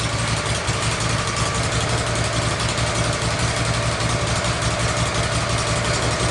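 Wood-Mizer LT15 sawmill's engine running steadily with an even drone.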